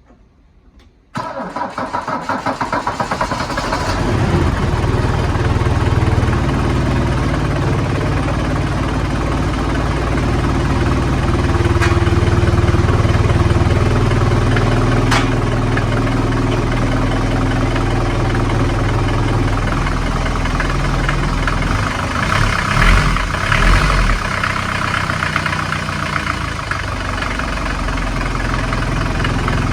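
Mercedes-Benz W123 240D's four-cylinder diesel engine being started: the starter cranks for about three seconds from a second in, the engine catches and settles into a steady diesel idle, briefly louder about 23 seconds in.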